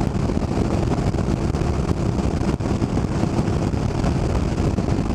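Wind noise rushing over the microphone, with the BMW R1150GS's boxer-twin engine running steadily underneath at cruising speed.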